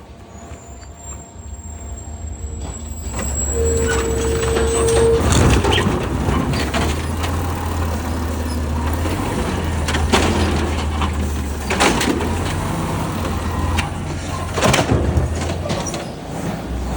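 Garbage truck's diesel engine running with a steady low rumble, a high thin whistle over the first few seconds, a short steady beep-like tone about four seconds in, and several sharp clanks and air hisses through the rest.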